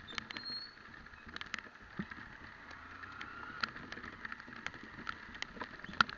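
Motorcycle ridden in the rain: a steady hiss of riding on the wet road, with irregular sharp taps of raindrops hitting the microphone, one louder tap near the end.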